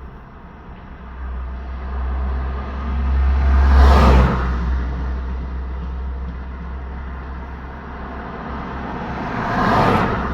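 Road vehicles passing by, two in turn. The first approaches with a growing low rumble and passes about four seconds in; the second passes near the end.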